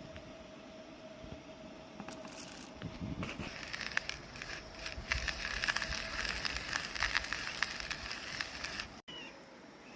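Small hand coffee grinder crushing coffee beans: a dense crackling crunch that builds about three seconds in and cuts off suddenly near the end.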